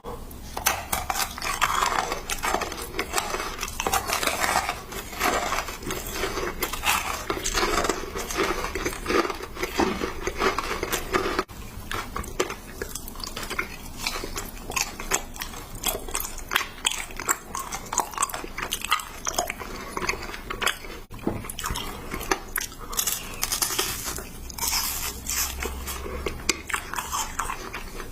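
Blue sugar candy crunched and chewed close to the microphone: dense, irregular crackling bites, one after another.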